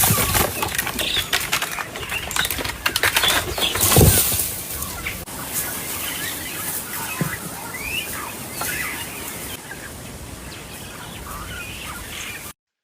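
A bird's wings flapping in a rapid flurry, loudest about four seconds in, then short chirping bird calls. The sound cuts off abruptly just before the end.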